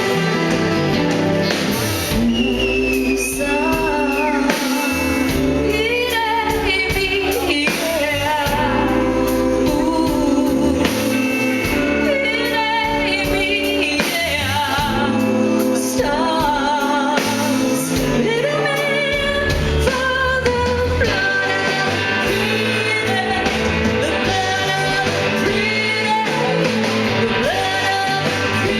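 Live band music with singing: a sung melody with vibrato over steady bass and guitar.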